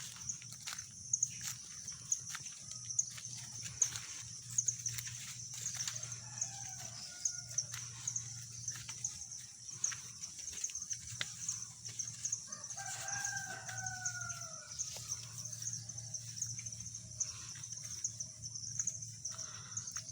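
Rooster crowing, one long falling crow about two-thirds of the way in, with a fainter call earlier, over a steady high chirring and scattered light clicks.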